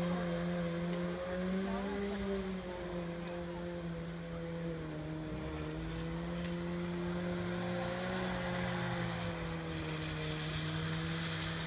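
Rally car engine, a small four-cylinder as in the Renault Dauphine Gordini, running at high, nearly steady revs with small dips and rises in pitch. A hiss grows near the end.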